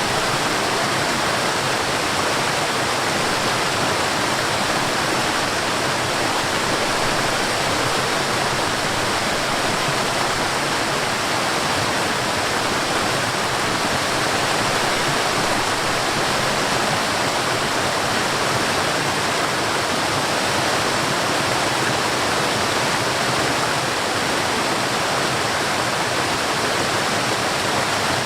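Forest waterfall: water falling and rushing in a loud, steady, even roar with no breaks or changes.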